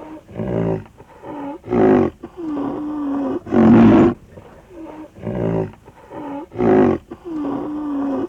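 Lion roaring: a run of deep calls about one a second, short loud grunts alternating with longer drawn-out ones.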